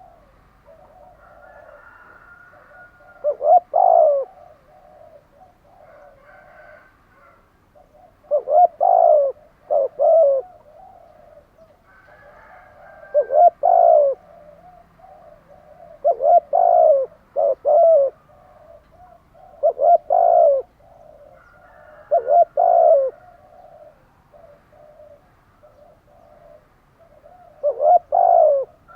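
Spotted doves cooing: loud, short coo phrases of a few low notes each, repeated about every three to five seconds. Softer chirping from other birds continues between the phrases.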